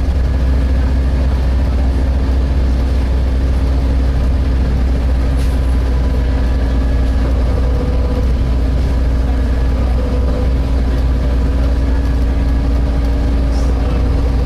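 Volvo B7TL bus's diesel engine running, heard from inside the bus as a steady low drone with a steady hum over it.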